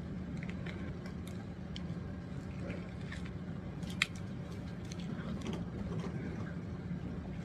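A person biting into and chewing a sub sandwich, with small wet clicks of the mouth and one sharper click about four seconds in, over a steady low hum.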